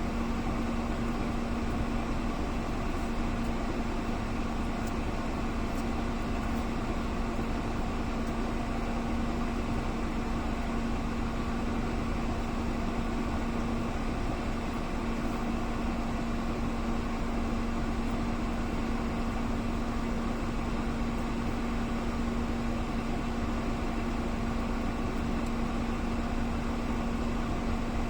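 Engine idling steadily, a constant unchanging hum.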